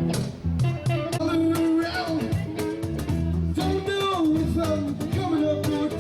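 Live band playing an instrumental break in a blues-rock song: a guitar melody with bending notes over bass and drums.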